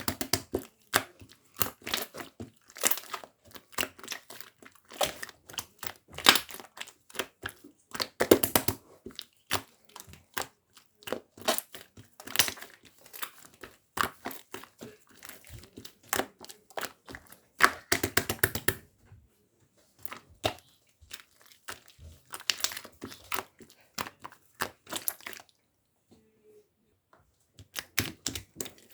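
Milk-pudding slime being squished and pressed by hand: dense, irregular sticky clicks and crackling pops, with a couple of brief pauses in the last third.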